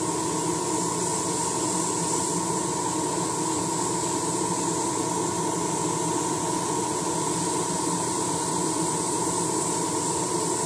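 Airbrush spraying in one continuous hiss of about eleven seconds, over the steady hum of a spray booth's extraction fan.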